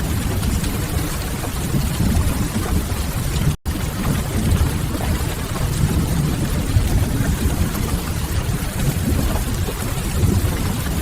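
Mixed rain-and-fireplace ambience: steady rain with a deep low rumble under a hiss. The sound cuts out completely for a split second about three and a half seconds in.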